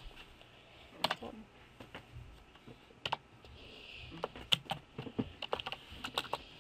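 Computer keyboard being typed on: scattered key clicks, a few at first, then quicker runs of keystrokes in the second half.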